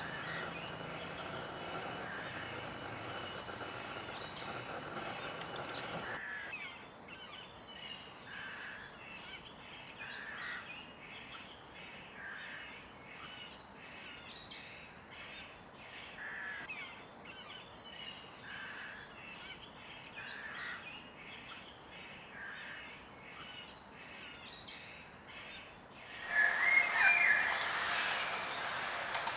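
Several wild birds singing and chirping, with many short, high chirps falling in pitch and a steady high trill at first. The recording changes twice, and a louder call comes near the end.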